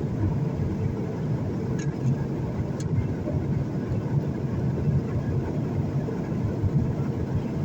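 Steady low rumble of an airliner cabin on approach for landing: engine and airflow noise heard from a passenger seat.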